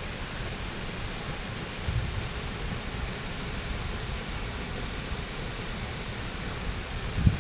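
Waterfall rushing as a steady, even roar of water, with a couple of low thumps on the microphone, the loudest near the end.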